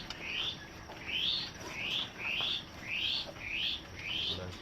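A bird chirping over and over, about ten short, similar chirps at roughly two a second.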